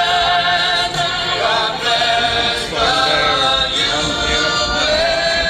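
Choral singing with music: many voices holding long, sustained notes.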